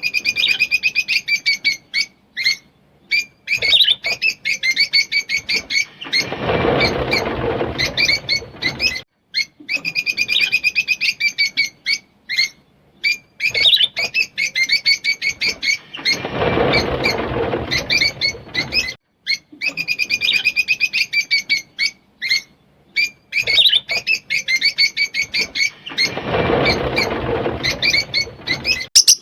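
Rosy-faced lovebirds chattering in fast, high chirps. A louder, noisier stretch of about two seconds comes three times, about every ten seconds.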